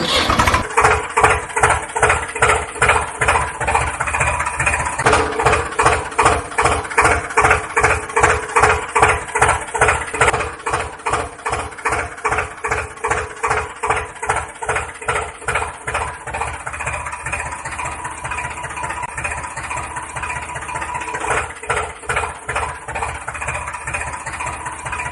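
Tractor engine running at a steady idle, a regular chug about two beats a second over a constant hum.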